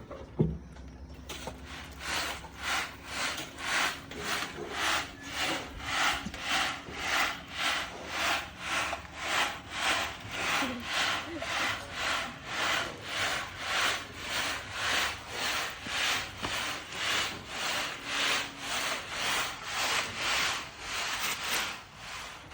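Sand being screened by hand, sifting and scraping across a screen in a steady rhythm of gritty swishes, about three strokes every two seconds. The strokes start about a second and a half in.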